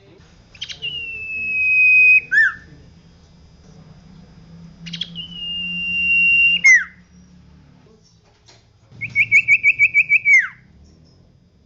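Common iora (cipoh) singing: two long, drawn-out level whistles, each ending in a quick downward slur, then about nine rapid repeated notes that finish in a falling glide.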